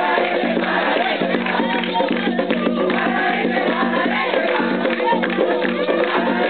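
A group of voices singing a ritual chant for Xangô over steady, rhythmic drumming.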